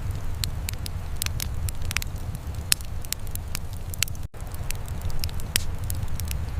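Wood fire crackling, with many sharp pops and snaps over a steady low rumble. The sound cuts out for a split second a little past halfway.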